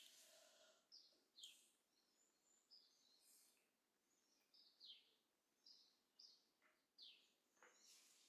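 Faint birds chirping: a scattered series of short, high chirps, each falling in pitch, roughly one a second.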